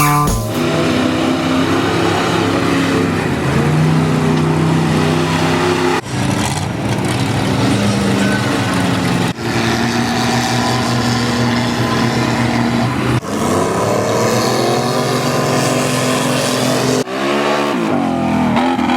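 Off-road mud-bogging vehicle engines running loud and revving, the sound breaking off and starting again several times.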